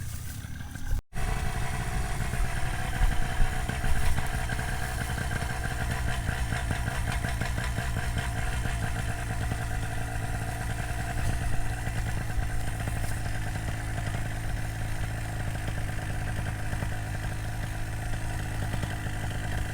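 Paramotor engine running at a steady, unchanging speed. It comes in just after a brief break about a second in.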